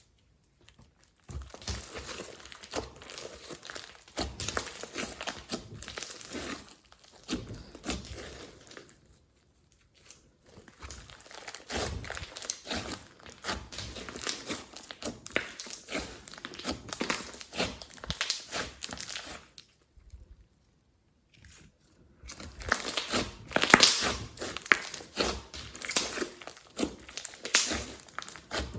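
Slime being kneaded and stretched by hand: runs of many small sticky clicks and pops, stopping briefly three times.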